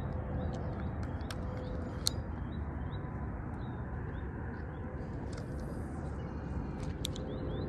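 Outdoor ambience: a steady low rumble under a series of short high chirps repeating a few times a second, with a few sharp clicks, one about two seconds in and another near the end.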